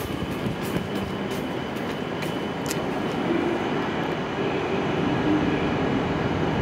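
E7-series Shinkansen trainset at the platform, giving a steady electrical hum with a thin high tone. A few sharp clicks come in the first three seconds, and a mid-pitched whine joins about halfway through as the sound grows slightly louder.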